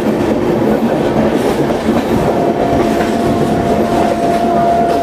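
Passenger train running, heard from aboard a carriage: a steady rumble and rattle of the wheels on the track. A thin, steady high whine joins about two seconds in and holds.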